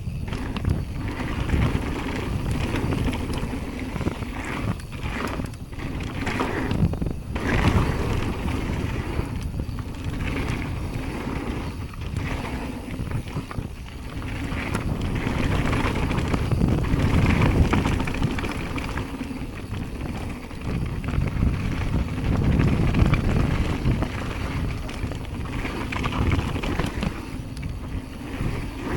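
Jamis Hardline mountain bike ridden down a bike-park trail: tyres rolling over dirt and wind buffeting the microphone, with short knocks and clatter from the bike over bumps and landings.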